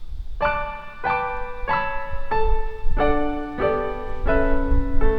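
Background music: a piano intro playing a slow melody, a note or chord struck about every two-thirds of a second, each ringing on until the next.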